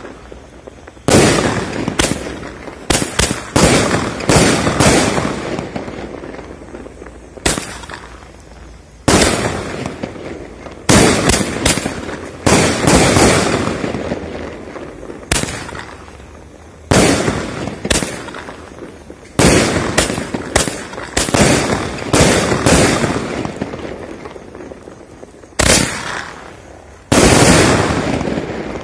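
A 20-shot aerial fireworks cake firing its shells in turn. There are repeated sharp bangs, some singly and some two or three in quick succession, and each bang trails off in a long echo.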